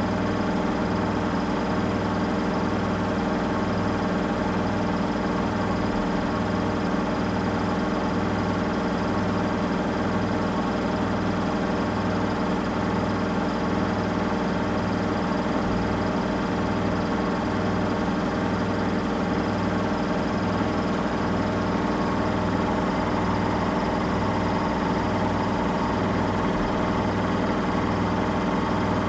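Samsung Eco Bubble washing machine running steadily mid-cycle on a cotton wash: a constant motor hum with a low throb that pulses regularly, a little less than once a second.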